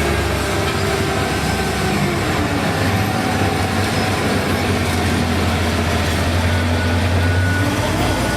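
Heavy diesel engine of an excavator running steadily, with a strong low drone that drops in pitch near the end.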